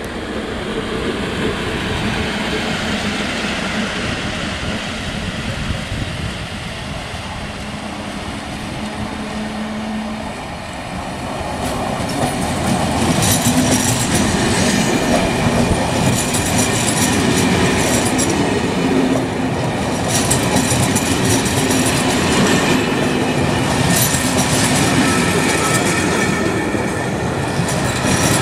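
Steady rumbling of a moving vehicle with a low hum, growing louder about halfway through, with high-pitched metallic squealing and clatter over it from then on.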